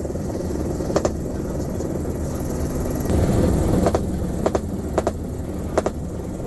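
Mi-35M helicopter's rotor and turbine noise, a steady low rumble that swells for about a second near the middle, broken by about five short sharp cracks at irregular spacing.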